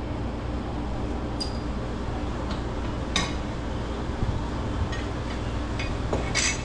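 A few sharp metallic clinks of tools and bolts against the steel meat rail, one ringing briefly about one and a half seconds in, over the steady low hum of the cooler's fans.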